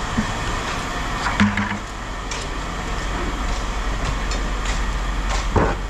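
Scrap metal being dumped from a bucket: scattered clanks and rattles, with several sharper knocks about one and a half, two and a half and five and a half seconds in, over a steady low rumble.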